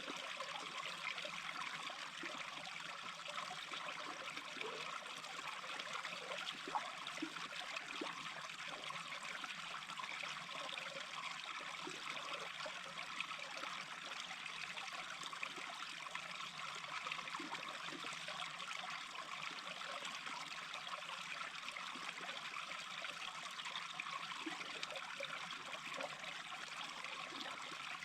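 Small brook babbling steadily, with little gurgles of water scattered throughout.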